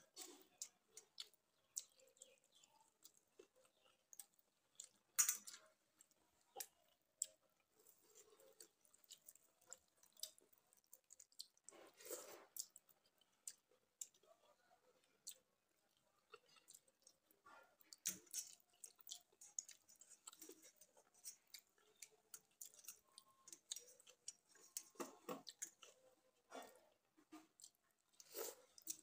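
Faint, close-up eating sounds of a person eating watery fermented rice (panta bhat) by hand: soft wet chewing with scattered mouth clicks and lip smacks, and one longer, louder mouth sound about twelve seconds in.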